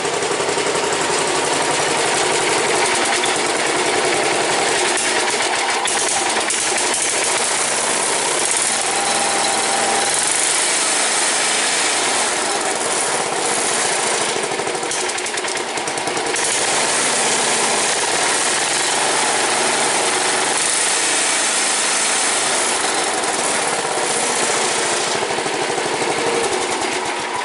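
Garden tractor's engine running steadily at a loud, even level.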